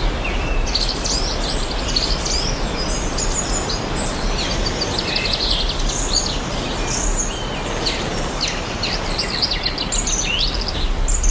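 Several small birds chirping and singing in quick, overlapping calls, over a steady, even background noise.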